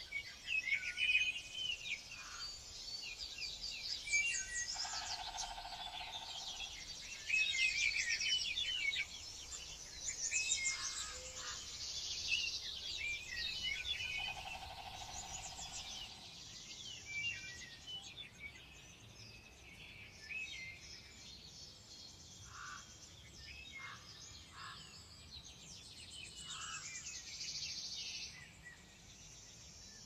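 Several birds chirping and singing in short repeated calls and trills over a steady high buzz.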